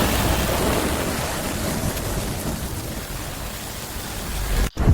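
Steady rain-like rushing noise with a deep low rumble, easing slowly, broken by a sudden brief dropout near the end.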